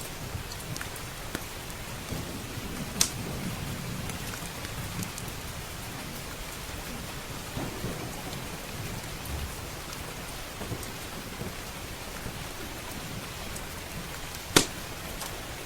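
Steady heavy rain with low rolling thunder, over a crackling wood fire that gives small ticks and two sharp pops, about three seconds in and near the end, the later one the loudest.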